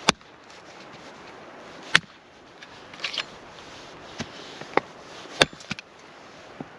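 A few sharp knocks and clicks, a couple of seconds apart, with a short rattly cluster in the middle, over a faint steady hiss.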